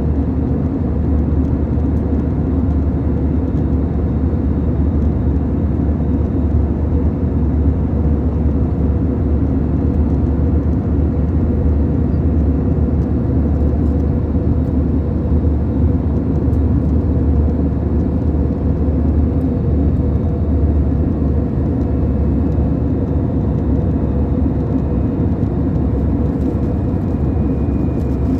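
Steady drone of an airplane in flight, heard inside the cabin: engine hum and rushing air, unchanging throughout.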